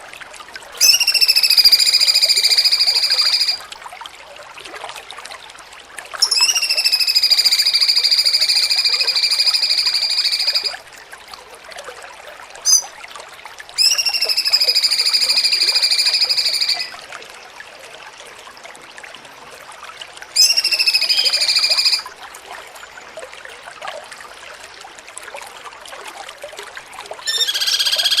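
Cucak cungkok bird calls: four long, steady-pitched, reedy notes, each rising briefly at the start and then held level for roughly one and a half to four and a half seconds, with a short chirp between the second and third.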